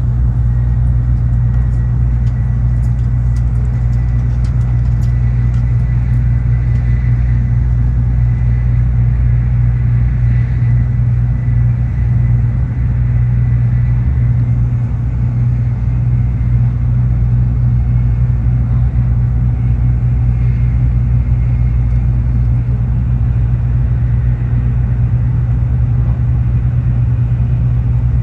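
Steady rumble of a Tokaido Shinkansen bullet train running along the line, heard from inside the passenger cabin, with a faint steady high tone above it.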